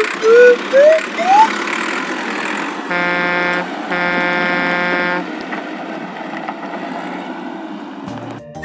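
Cartoon sound effects for a toy vehicle. Several short rising whistle-like glides, the loudest sounds here, come in the first second and a half. Then a vehicle horn toots twice, a short toot and then a longer one, over a steady background hum.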